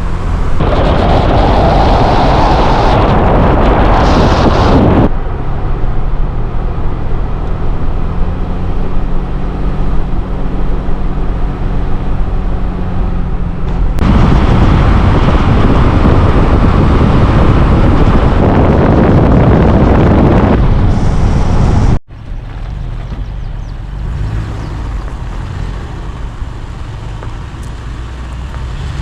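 Motor vehicle driving: a steady low engine hum under road noise and rushing wind, in several abrupt cuts, the last section quieter.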